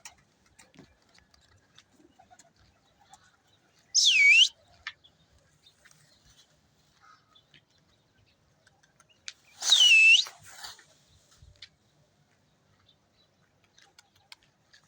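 A person whistling loudly to drive young pigeons into flight. Two short swooping whistles, about four and ten seconds in, each dropping in pitch and rising again.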